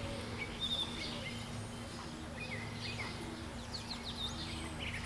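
Small birds chirping in the background: short, high chirps, many sliding downward, scattered irregularly. A steady low hum runs underneath.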